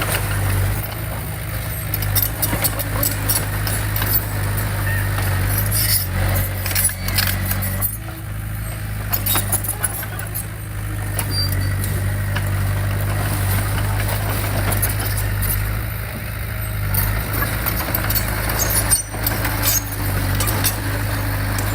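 Diesel engine of heavy earthmoving equipment running steadily under load, with frequent metallic clanks and rattles.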